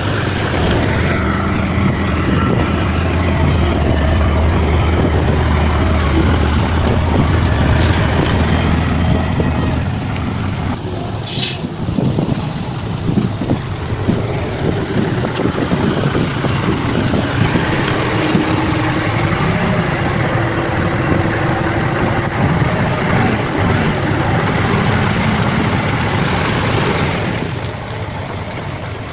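Bulldozer's diesel engine running steadily, its note and level shifting about ten seconds in and dropping near the end.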